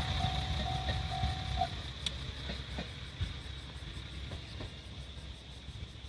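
Amagi Railway diesel railcar rumbling away past a level crossing, its sound fading steadily. The crossing's pulsing warning bell rings on and stops about a second and a half in.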